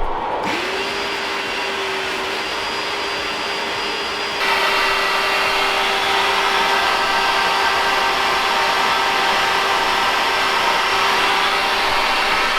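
Wet vacuum cleaner, starting up about half a second in with a brief rising whine, then running steadily while sucking up floodwater from a basement floor. About four seconds in it gets louder and hissier.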